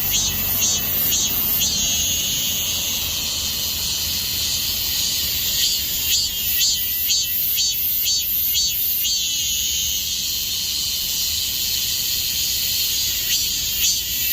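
Cicada singing: a high, shrill buzz that comes in runs of rapid, evenly spaced pulses, with a steadier stretch of buzzing in between.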